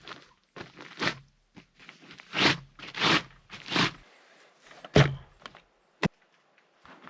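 Footsteps, a handful of irregular steps about half a second to a second apart, then a single sharp click about six seconds in.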